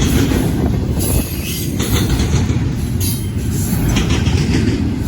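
Freight train rolling past, a steady heavy rumble with wheels knocking over rail joints every second or so.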